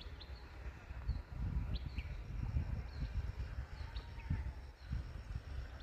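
Small birds calling with short high chirps about once a second, over a low, uneven rumble.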